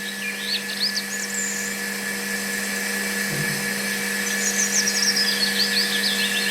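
A small electric power tool, such as a mini drill, runs steadily at one unchanging pitch, with high chirps sounding over it.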